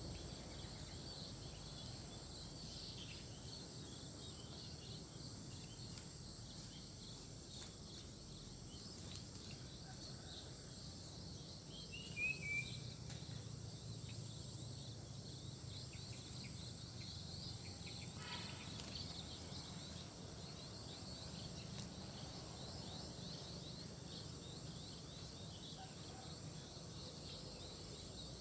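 Faint, steady countryside ambience: a continuous high insect chorus, with a couple of short bird calls, one near the middle and another about two-thirds through.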